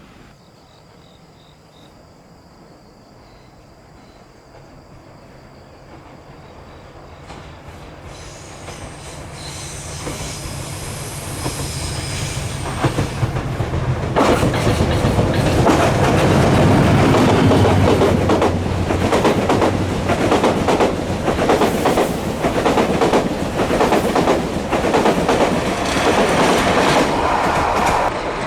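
A train approaching and passing close by. A low hum swells over about eight seconds, then from about halfway the wheels clatter over the rail joints in a quick run of clicks.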